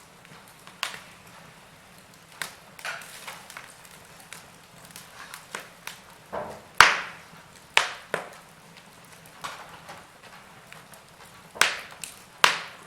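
Wood fire in a fireplace crackling, with irregular sharp pops over a faint hiss; the loudest pops come about seven seconds in and twice near the end.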